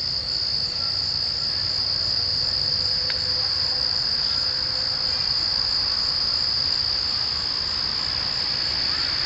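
A chorus of night insects trilling steadily, one continuous high-pitched buzz that holds without a break.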